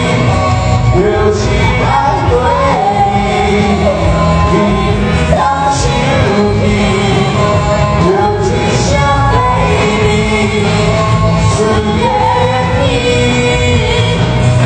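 A live band playing a pop song, with a singer's voice carried over the band.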